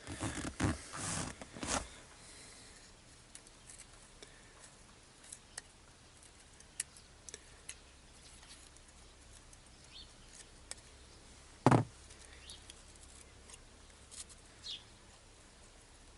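Hands handling the heater blower motor while its brushes are removed: a few scraping, rustling bursts at first, then scattered light clicks and ticks of small metal parts, and one sharp knock near the middle.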